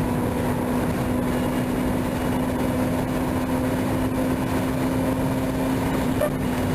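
Honda B-series VTEC four-cylinder engine running at steady revs, its pitch holding level, heard from inside the car.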